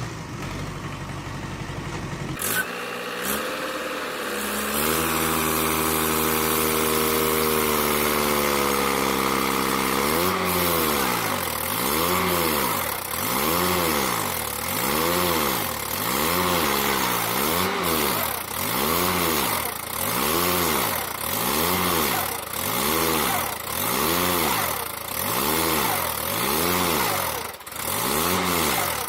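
Tractor engine running under load, its pitch climbing a few seconds in and holding, then surging up and down in regular swells about once a second.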